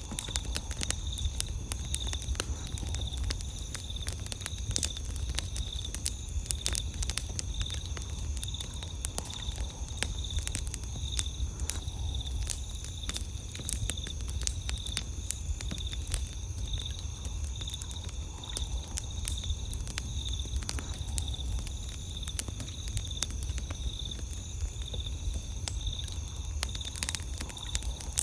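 Campfire crackling, with frequent sharp pops and snaps over a low steady rumble. Night insects trill steadily behind it, one in a fast pulsing rhythm.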